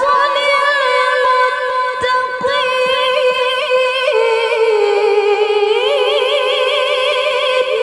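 A woman reciting the Quran (tilawah) in a high, clear voice, holding a long melismatic note with vibrato. The pitch steps down about four seconds in and rises again near six seconds.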